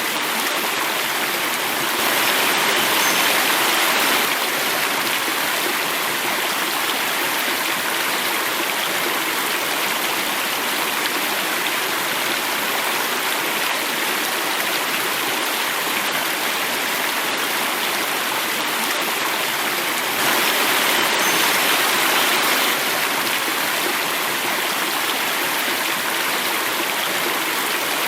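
Running water falling over a small cascade, a steady rush with two brief louder surges, one about two seconds in and one about two-thirds of the way through.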